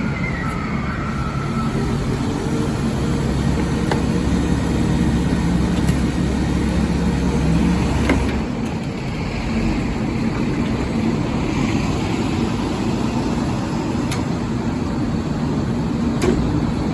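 Leach rear-loader garbage truck's engine running, picking up about a second and a half in and dropping back about eight seconds in as the hydraulic packer works a load of cardboard. A few sharp cracks, one as the engine drops and two near the end.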